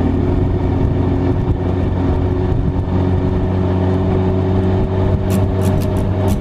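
Engine of an open-cockpit Seven-style sports car running at a steady cruising speed, a level drone heard under wind and road rush in the open cockpit.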